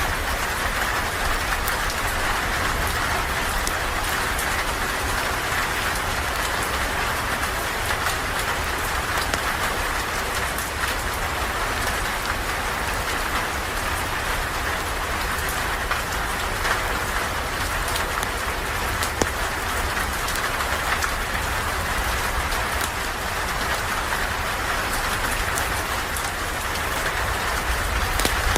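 Steady rain falling around a porch, an even rushing hiss with fine scattered ticks of drops and a low rumble underneath.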